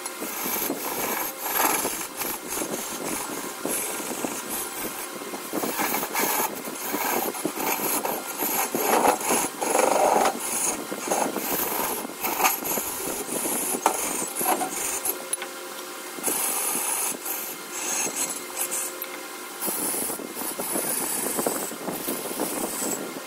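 Wood being cut on a lathe, a turning tool scraping and shaving the spinning redwood in an irregular rasping with frequent short scrapes and knocks.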